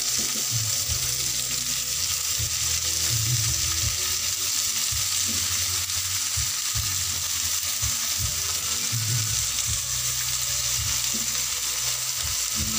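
Sago palm grubs frying in a wok, a steady sizzle.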